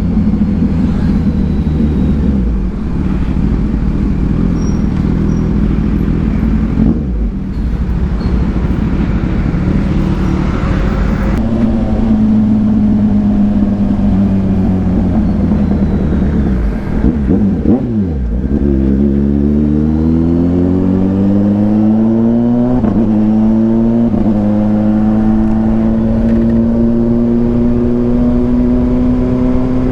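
Kawasaki Ninja 1000SX inline-four engine with an aftermarket AR exhaust, heard from the moving bike. It runs steadily, dips in revs about seventeen seconds in, then rises in pitch with two brief breaks and settles into a steady higher-pitched run near the end.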